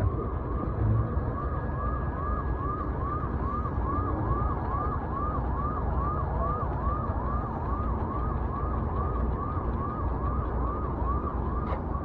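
An emergency vehicle's siren in a fast yelp, rising and falling a little over twice a second. Under it is the steady rumble of road and wind noise from riding a motorbike.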